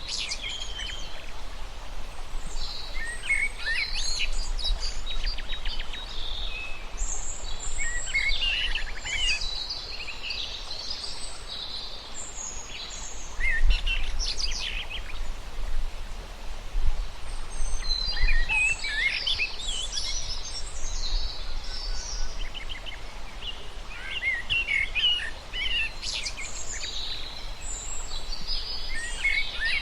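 Several birds singing and chirping in overlapping bursts, thinning out for a few seconds in the middle, over a steady low rumble.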